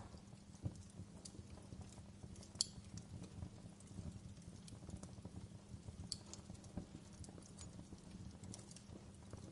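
Wood fire burning in a fireplace: a low rumble of flames with constant soft crackling and scattered sharper pops, the loudest pop about two and a half seconds in and another around six seconds.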